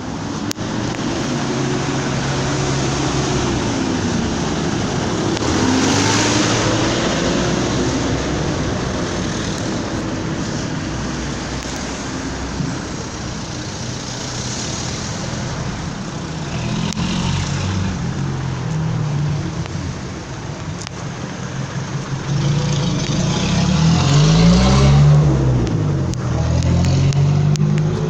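Motor vehicle engines and road noise, rising and falling several times as vehicles pass, loudest about 24 seconds in.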